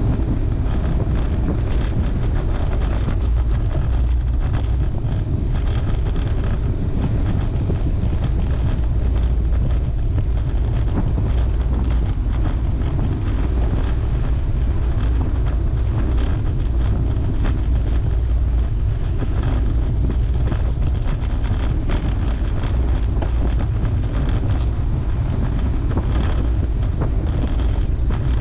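Steady wind noise buffeting a camera microphone while riding a road bike at speed, a loud low rumble with an even rushing hiss.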